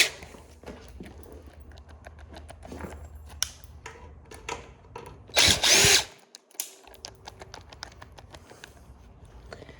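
Power drill with a hex bit run briefly about five and a half seconds in, its motor whine rising and falling, while a screw is backed out. Light clicks and taps of handling tools and parts between the runs.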